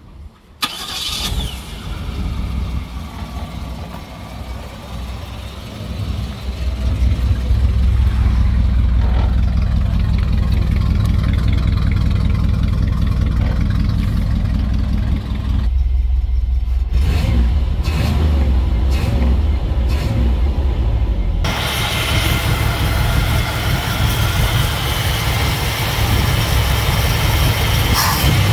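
Chevrolet 305 small-block V8 running steadily, freshly tuned and troubleshot to run. It gets louder over the first several seconds, then holds an even low rumble, with more hiss added from about two-thirds of the way through.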